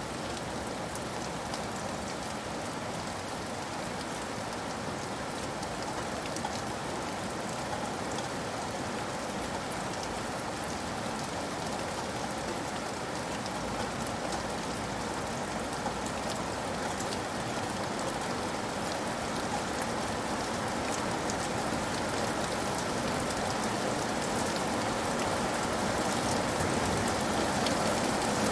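Steady rain falling on a surface, a dense even patter of many small drops, growing slightly louder towards the end.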